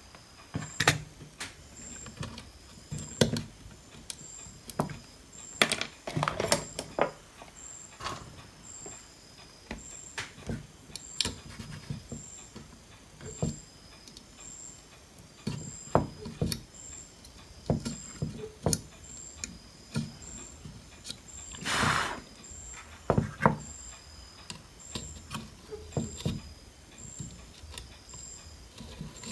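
Scattered clicks, taps and knocks of hand tools on a circuit board as rusted components are desoldered and pulled off a power supply board, with one louder, longer burst of noise a little past the middle. A faint high pip repeats evenly about every three-quarters of a second throughout.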